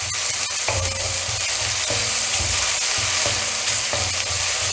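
Crushed ginger and garlic sizzling in hot coconut oil in a wok as they are stirred, frying until they wilt and brown lightly. A steady hiss, with a regular low rubbing about twice a second from the stirring and a few light clicks of the spoon against the pan.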